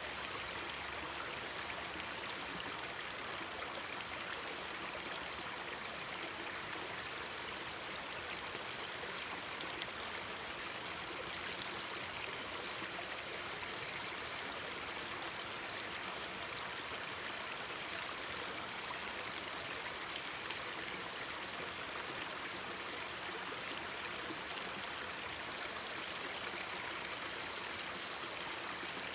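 Mountain stream babbling over rocks, a steady, even rush of flowing water.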